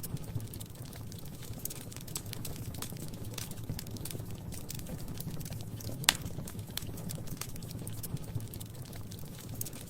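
Wood fire crackling in a fireplace: irregular pops and snaps over a low, steady rumble, with one sharp pop about six seconds in.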